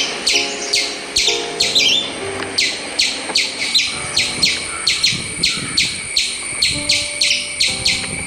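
Squirrel squeaking in a fast, even run of short high-pitched chirps, about four a second, that cuts off suddenly near the end.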